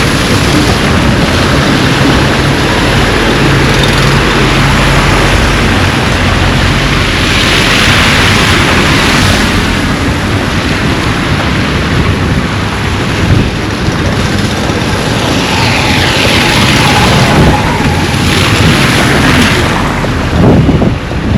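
Loud, steady rushing noise of wind buffeting the microphone over flowing floodwater, swelling twice, with a low engine-like hum in the first few seconds.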